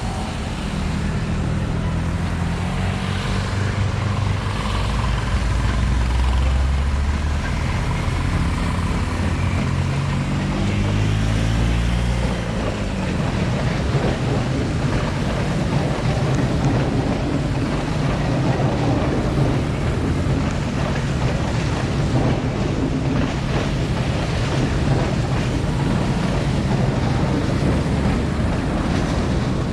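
Diesel locomotive engine running, its low notes shifting and rising about ten seconds in, then settling into a steady rumble with a dense rattle over it.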